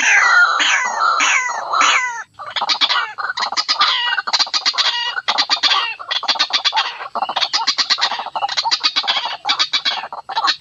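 White-breasted waterhen (ruak-ruak) calls from a bird-lure recording. First comes a run of falling notes, about three a second. After about two seconds it turns into a fast, stuttering chatter of short notes in bursts.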